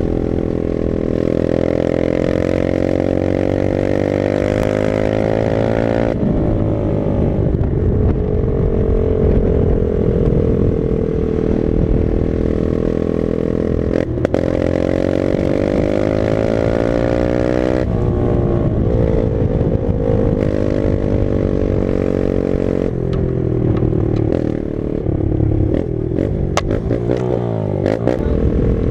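Dirt bike engine running under way, its pitch climbing through each gear and dropping sharply at the shifts, about four times.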